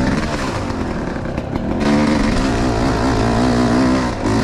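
Enduro motorcycle engine running, its revs wavering up and down. It dips briefly about a second and a half in, then runs louder.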